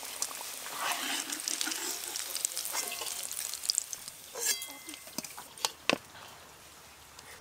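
Potatoes sizzling as they fry in hot oil in an iron kadai, with a metal ladle scraping through them and lifting pieces out. Several sharp metal clinks come in the second half, when the fried potatoes go into a steel bowl, and the sizzle is fainter toward the end.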